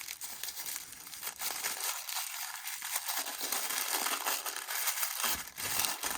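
Packaging being crinkled and rustled by hand as a new pocketknife is unwrapped from its box, with small crackles throughout.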